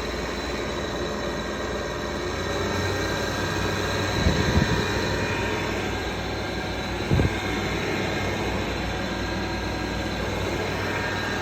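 Air conditioner running with a steady drone and several whining tones from its fan motor, whose bearings are worn out. Two short low thumps, about four and a half and seven seconds in.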